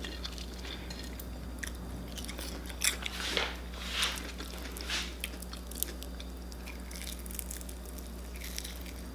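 Close-up mouth sounds of chewing and biting into a crispy-coated vegan fried chicken drumstick: scattered soft crunches and wet clicks, a few louder ones in the first half and more near the end.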